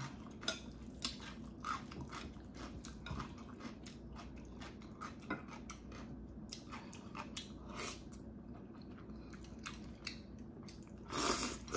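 Close-up chewing and mouth sounds of a person eating jjajangmyeon (black bean noodles): irregular soft clicks and smacks. A brief louder rush of noise comes near the end.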